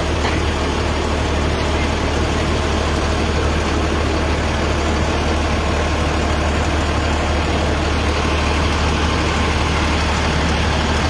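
Heavy vehicle's engine idling steadily, a constant low rumble.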